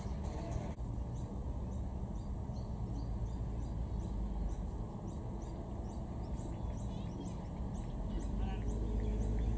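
Open-air ambience: a small bird chirping over and over, about two short high chirps a second, with a burst of twittering near the end, over a steady low rumble.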